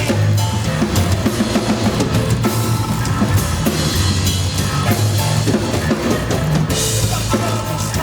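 Live rock band playing: a drum kit with bass drum and snare hits over a steady, held bass line, with a cymbal wash near the end.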